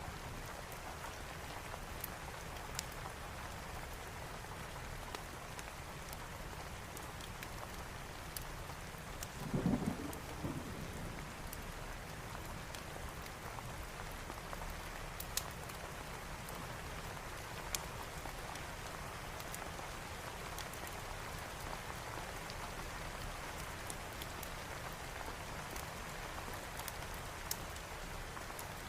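Steady heavy rain falling, with scattered sharp crackles of a wood fire and a brief low rumble of thunder about ten seconds in.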